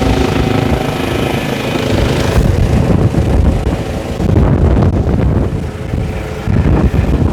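Helicopter running close by, its engine whine and rotor noise mixed with heavy gusts of wind buffeting the microphone. The engine's steady tone fades after about two seconds, leaving mostly the gusty wind rumble.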